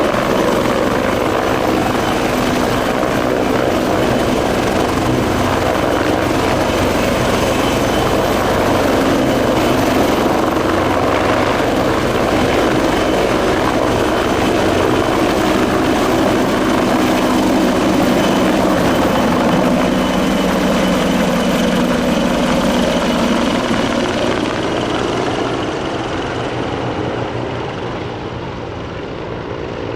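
Bell 430 twin-turbine helicopter running loud and steady, its rotor and turbine sound filling the air, growing fainter and duller near the end.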